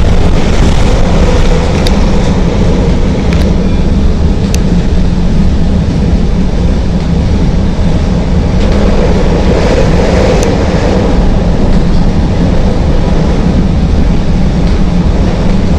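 CTA rapid-transit railcar running at speed on elevated track, heard from inside the car: a loud, steady rumble of wheels and motors on the rails, with a few sharp clicks.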